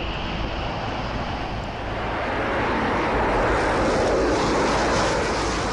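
Jet aircraft engine noise, a steady rushing sound that swells from about halfway through and eases slightly near the end, as of a jet passing.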